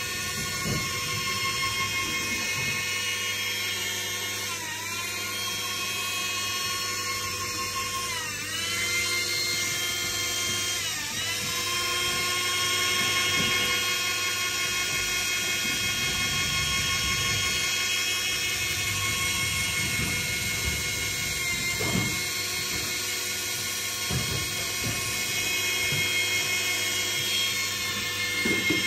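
High-pitched motor whine from construction machinery. Its pitch sags briefly and recovers a few times, as if taking load, with a few low knocks.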